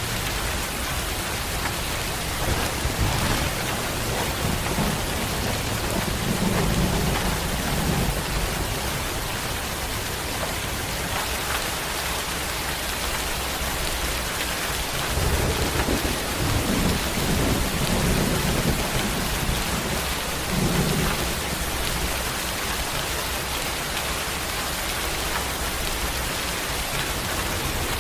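Steady rain falling, with thunder rumbling low twice: once about three seconds in for several seconds, and again about fifteen seconds in.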